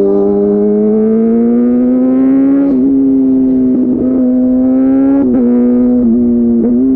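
Kawasaki ZX-6R 636's inline-four engine running through an SC Project slip-on exhaust, its pitch climbing slowly over the first few seconds and then held steady, with a few brief small wobbles in the throttle.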